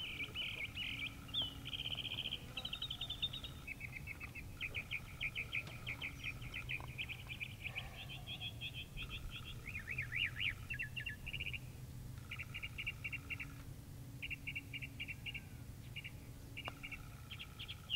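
Songbirds chirping and trilling in quick runs of short repeated notes, almost without a break, over a low steady rumble.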